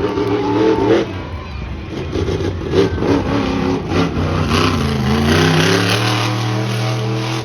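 Monster truck engine revving hard, its pitch rising and falling, climbing steadily near the end, with a few sharp knocks along the way.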